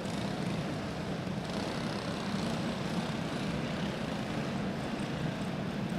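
A field of racing karts with single-cylinder four-stroke clone engines running on the track, heard together as a steady engine drone.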